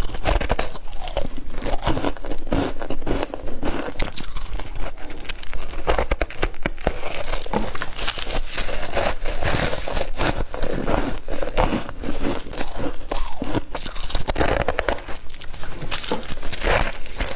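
Close-up crunching and chewing of soft, flaky humidifier-grown frost: dense, irregular crackling crunches with bites and chews throughout.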